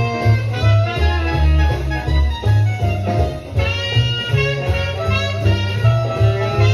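Recorded big-band music with brass and saxophone over a steady beat and walking bass, played back from tape on a restored Otari MX-5050 reel-to-reel deck.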